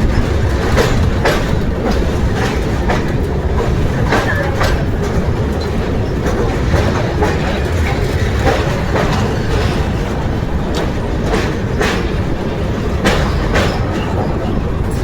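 Amrit Bharat Express train running: a steady loud rumble with irregular sharp clicks of the wheels passing over rail joints.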